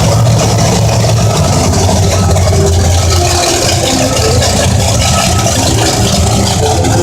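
Monster truck engine running, a loud, steady low rumble that eases slightly about halfway through.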